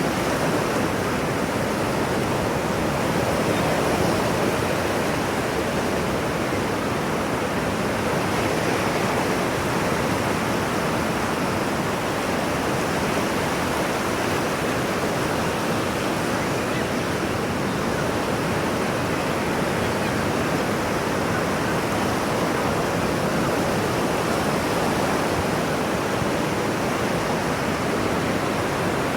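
Steady rushing noise of ocean surf, a continuous even wash with no distinct swells or breaks.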